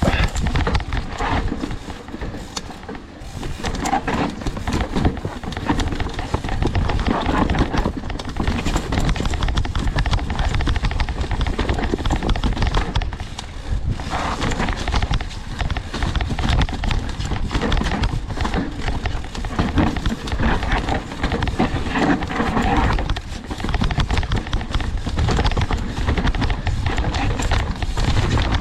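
Mountain bike descending a rough downhill trail: a continuous loud rumble and rapid clatter of tyres over dirt and rocks and the bike's frame and parts rattling.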